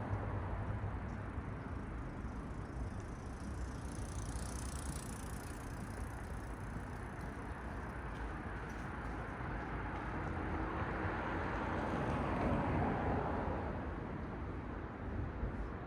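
Cars passing on a road: a steady hiss of tyres and engines that swells and fades as vehicles go by, the loudest pass coming about three quarters of the way through.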